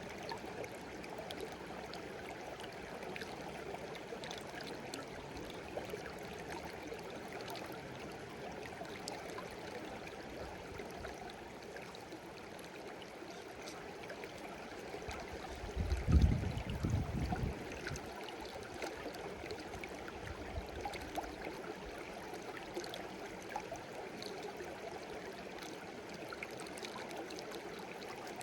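A shallow stream babbling and trickling steadily, with many small splashes. Just over halfway through, a brief low rumble, the loudest thing here, lasts about a second and a half.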